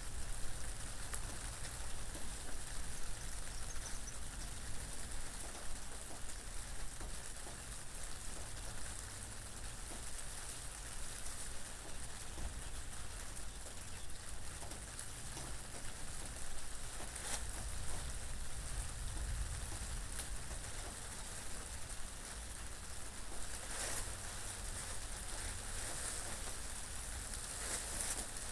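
Steady rain falling with wind: an even hiss of rain over a low rumble of wind, swelling briefly louder a few times in the second half.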